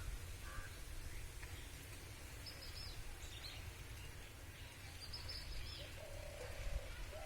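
Small birds chirping in two short high-pitched bursts over a steady low rumble of outdoor background noise.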